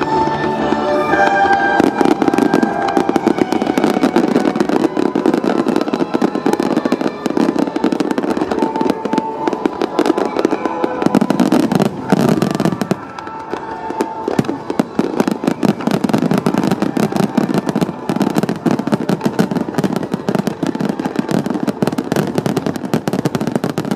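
Fireworks display: a dense, continuous barrage of bursts and crackling pops, with music playing underneath.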